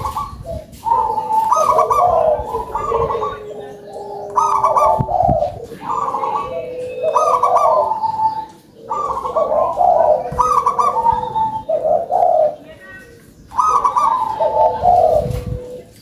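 Local perkutut (zebra dove) cooing loudly in repeated deep, rolling phrases, one every second or two.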